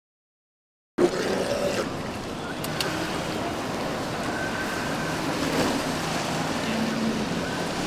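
Steady rush of whitewater, starting abruptly about a second in.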